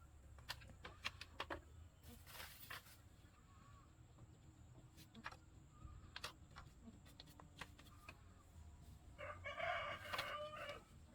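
A rooster crows once near the end, one call of about a second and a half, over scattered light clicks and knocks.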